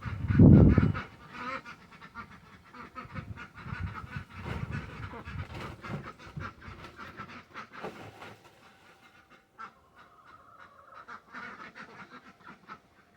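Waterfowl calling: a run of short quacking calls that thins out in the second half. A loud low bump comes about half a second in.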